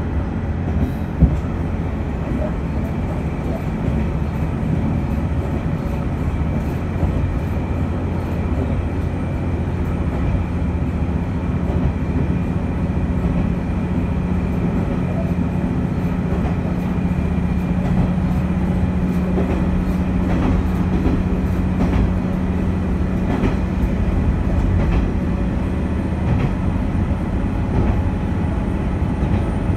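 Noto Railway diesel railcar running along the line: steady rumbling wheel-on-rail noise with a few clicks over rail joints. A steady engine hum comes up about a third of the way in.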